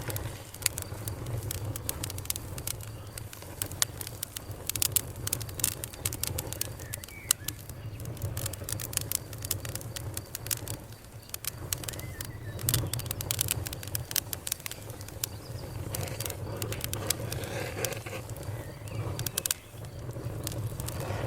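Fire crackling: many sharp snaps and pops at irregular moments over a steady low rush.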